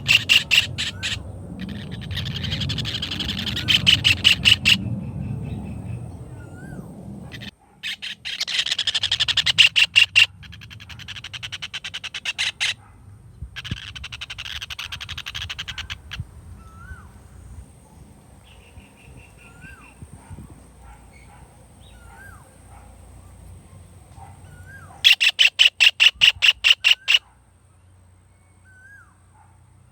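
Kingfisher giving loud rattling calls, fast runs of sharp notes in several bouts separated by pauses. Between the bouts, short rising chirps repeat every couple of seconds.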